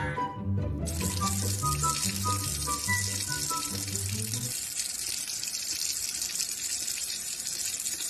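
Steady rush of running water starting about a second in, with background music that stops about halfway through.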